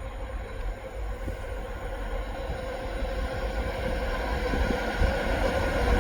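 A train approaching: a low rumble with a steady hum that grows louder.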